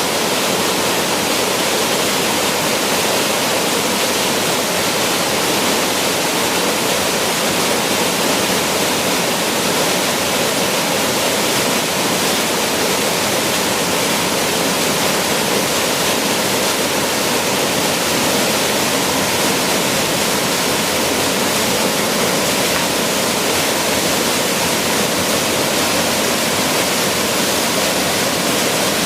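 Waterfall: a steady rush of falling water splashing onto rock, unbroken throughout.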